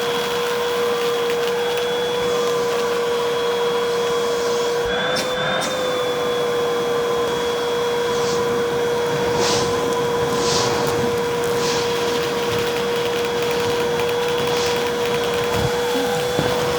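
Vacuum cleaner running steadily with a constant motor whine. The pitch wavers briefly partway through, and several short crackling hisses follow in the middle, typical of crunchy debris being sucked up.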